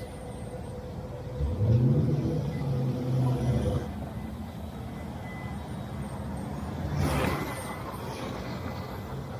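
Engine noise from street construction work: a motor revs up and runs for about two seconds, then a short hiss about seven seconds in, over steady street background.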